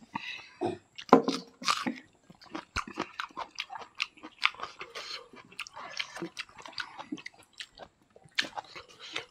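Close-miked chewing and lip smacking of people eating rice and chicken by hand: a rapid, irregular run of short wet smacks and clicks.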